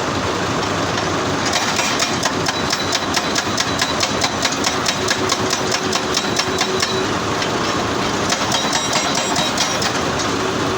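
Excavator-mounted hydraulic hammer (rock breaker) pounding stone in two bursts of rapid, evenly spaced blows, the second starting about eight seconds in, over the steady running of the excavator's diesel engine.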